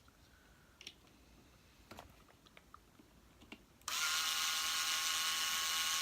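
A few faint clicks of parts being handled, then a small power tool's electric motor starts suddenly about two-thirds of the way in and runs with a steady high whine.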